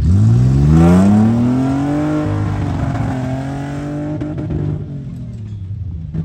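Truck engine revving hard as it accelerates. The pitch climbs steeply in the first second or so, then holds, and the sound fades over the last couple of seconds.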